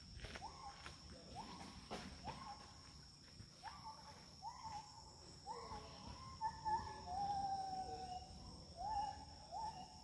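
A forest bird calling a short whistled hoot over and over, each note sliding up and then held, about once a second, over a steady high-pitched insect drone.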